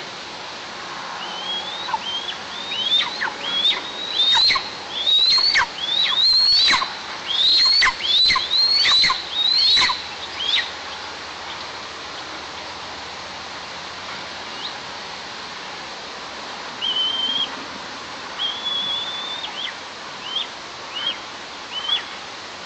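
Young eagle calling from the nest for an absent parent: a run of about a dozen loud, high calls, each sliding up and then dropping sharply, through the first ten seconds or so. Near the end come a few shorter, flatter whistled calls, all over a steady background hiss.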